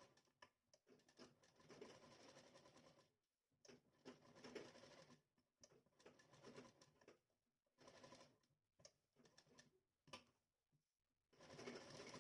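Faint sewing machine stitching in short runs of a second or two with brief pauses between them, a steadier run starting near the end, as a facing strip is sewn along a blouse neckline.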